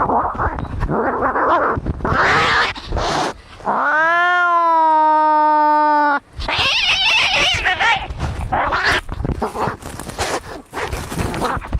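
Cats fighting: harsh hissing and spitting, broken about four seconds in by one long yowl of about two and a half seconds that rises and then holds its pitch, then more hissing and screeching.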